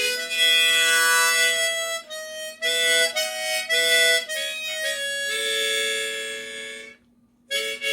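Harmonica playing a slow melodic phrase of held notes, many sounded as two-note chords. It breaks off briefly near the end for a short rest in the middle of the bar, then starts again.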